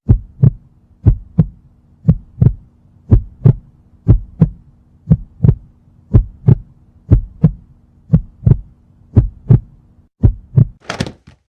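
Heartbeat sound effect: paired lub-dub thumps about once a second over a faint steady low hum, with a short hissy burst near the end.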